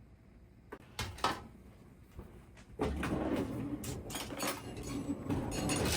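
Kitchen handling sounds: a few light knocks about a second in, then steadier clattering and rustling from about three seconds in, like a cupboard or drawer being worked and things being moved about.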